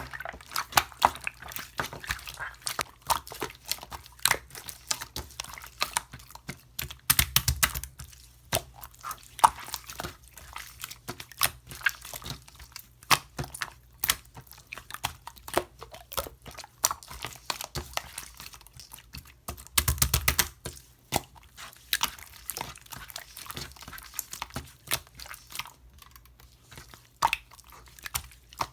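Hands kneading and poking slime: a continuous run of sticky clicks, pops and crackles, with louder squelching stretches about seven and twenty seconds in.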